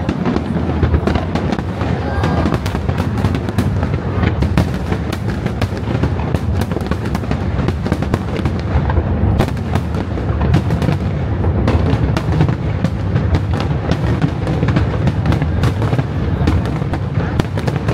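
Display fireworks bursting in rapid succession: many sharp bangs and crackles over a continuous low rumble.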